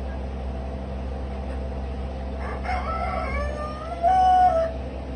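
A rooster crows once, starting about two and a half seconds in and ending in a loud held note near the end, over a steady low hum.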